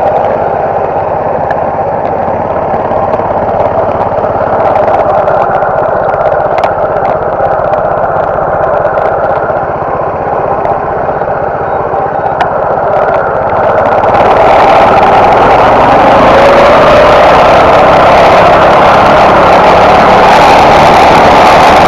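Massimo MB200 mini bike's small single-cylinder engine running, getting louder and fuller about fourteen seconds in as it is revved or ridden.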